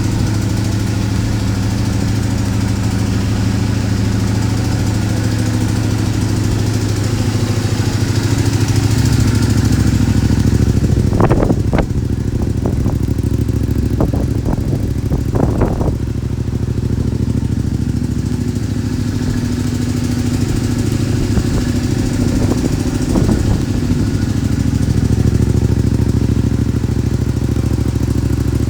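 Honda VTR250's 250 cc V-twin engine idling steadily through a custom center-up muffler, with a few brief sharp sounds about halfway through.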